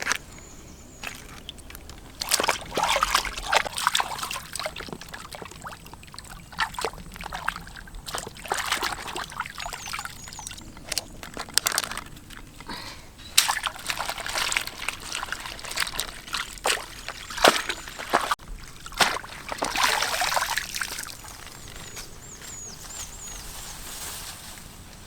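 Water sloshing, splashing and trickling in repeated short spells, with small clicks and knocks.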